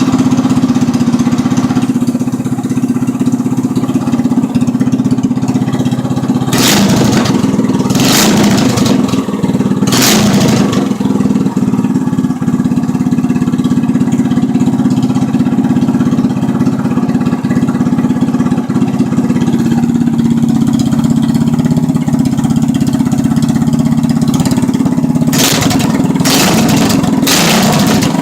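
Predator 212cc Hemi single-cylinder engine running with an aftermarket exhaust, pod air filter and rejetted carburettor: a loud, steady engine note, with a few brief louder bursts about seven to ten seconds in and again near the end.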